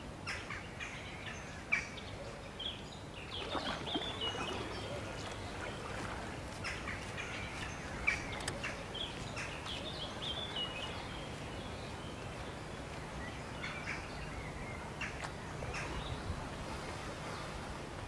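Outdoor park ambience: songbirds chirping and calling in short phrases throughout, over a steady low background rumble.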